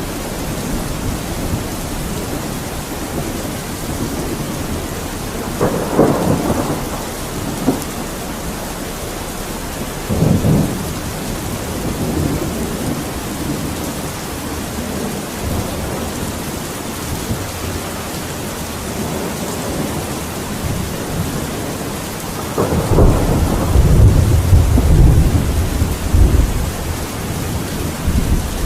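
Steady rain with thunder: a sharp thunderclap about six seconds in, another about ten seconds in, and a longer, louder low rumble of thunder near the end.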